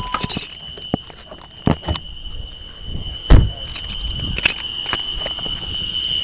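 Footsteps and clicks from a handheld camera being carried while walking, over a steady high chirring of night insects, likely crickets. A loud thump comes a little over three seconds in.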